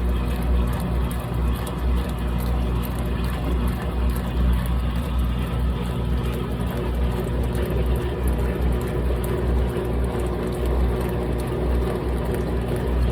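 GE top-load washing machine running a load that holds a thick comforter: a steady low motor hum under a continuous noisy wash.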